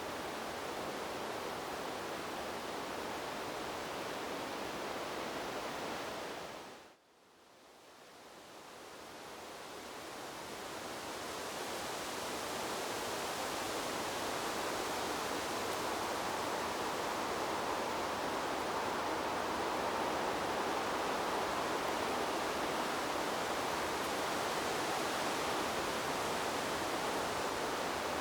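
Steady rushing noise of wind blowing through trees, without gusts or distinct rustles. About seven seconds in it fades out almost to nothing, then swells gradually back over several seconds to a slightly louder, fuller level.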